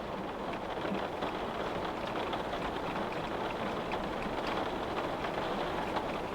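Steady rain falling and drops tapping on a window pane, a dense even patter with many small ticks.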